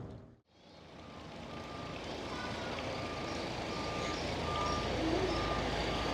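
A vehicle's reversing alarm beeping at an even pace over a steady rumble of engine and street noise, fading in after a brief dropout near the start.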